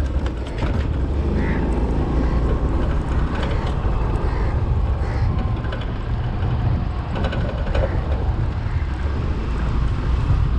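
Suzuki Access 125 scooter running along a street, with a steady low wind rumble on the camera's microphone.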